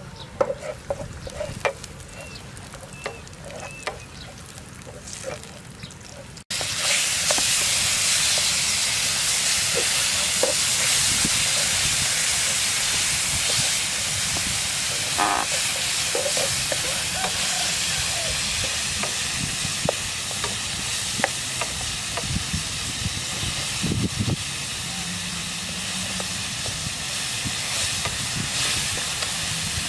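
Food frying in a pan on a portable gas stove, stirred with a wooden spatula. It begins as a light sizzle with small clicks and spatula taps. About six seconds in it jumps suddenly to a loud, steady sizzle with occasional scrapes.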